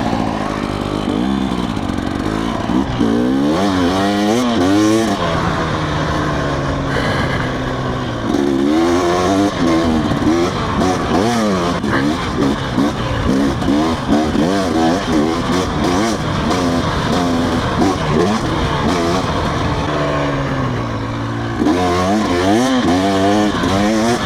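Motorcycle engine revving up and down repeatedly as the bike is ridden off-road, the pitch rising and falling with the throttle, easing briefly a few times.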